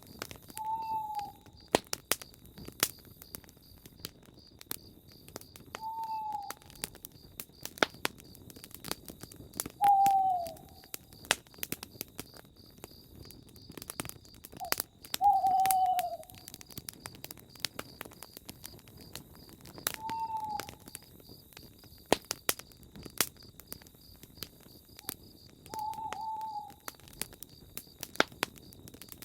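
Campfire crackling with scattered sharp pops, while an owl gives six single, short, slightly falling hoots about five seconds apart. A faint, steady, high pulsing chirr runs underneath.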